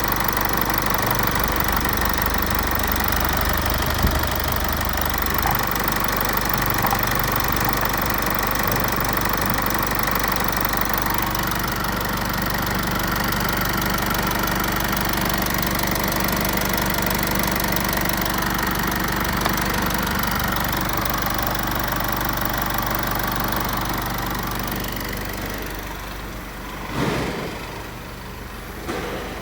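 Chrysler Grand Voyager's 2.8 CRD common-rail diesel engine idling steadily. It is shut off near the end, followed by a single thump.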